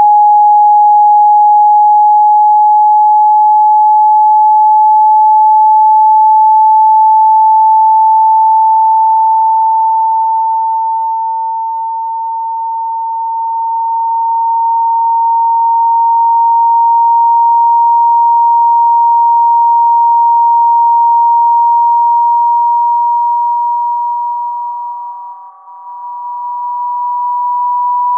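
Synthesized pure sine tone for clearing water from a phone speaker, held loud and gliding slowly upward in pitch. It softens for a moment about halfway through and nearly drops out for an instant near the end.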